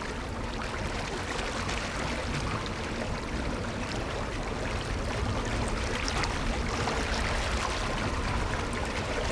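Water rushing and splashing along the side of a slowly trolling boat, a steady wash with small scattered splashes.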